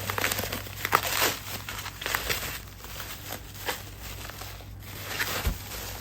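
Packaging crinkling and rustling as it is handled and opened by hand, in irregular crackles, with a low thump near the end.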